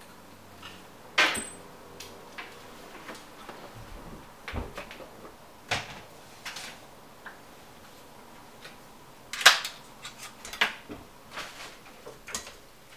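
Irregular clicks and knocks of tools and parts being handled, with two louder knocks, one about a second in and one about nine and a half seconds in.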